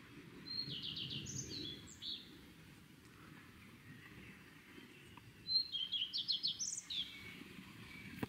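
A songbird singing two short phrases of quick, high repeated notes, one about half a second in and another about five seconds in, over faint low background noise.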